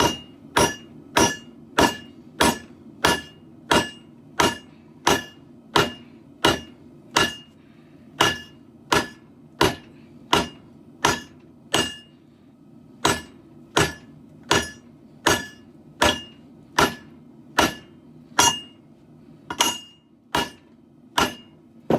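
Hammer blows on steel at an anvil, forging a blade: a steady rhythm of about one and a half strikes a second, each with a short metallic ring, with a brief pause near the middle.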